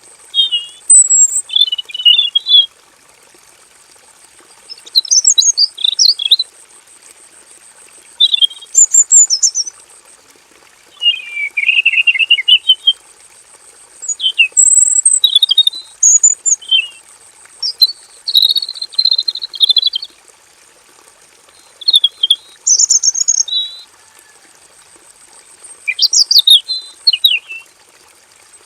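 Male red-billed leiothrix singing in short, bright, warbling phrases, one after another with brief pauses between them.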